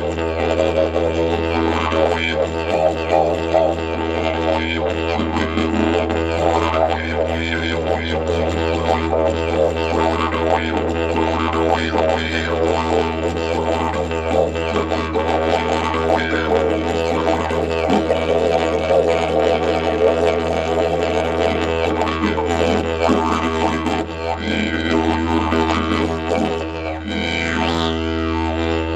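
Didgeridoo playing one continuous low drone, its tone shaped by wavering, sweeping overtones, with no break for breath.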